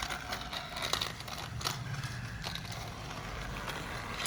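Battery-powered TrackMaster toy train engine running along plastic track: a low motor whir with irregular clicks and clatter from the wheels and track pieces.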